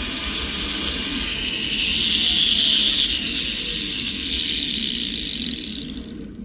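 Rotary tool with an abrasive bit grinding the inside of a gold ring shank, a steady hiss that swells about two seconds in, then fades and cuts off at the very end.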